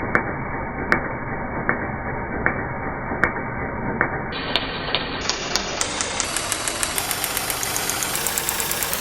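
Maruti Suzuki K-series car engine idling steadily, with sharp ticks over the running noise, about one every three-quarters of a second at first and more frequent in the second half.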